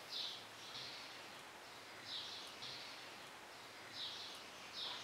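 Faint short chirps of a small bird, coming in pairs every second or two.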